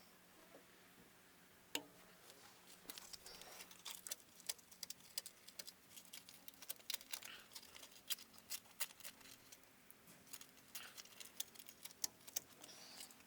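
Hands joining two wire leads with small tools: faint, irregular clicks and taps, with one sharper click about two seconds in and frequent small ticks after it.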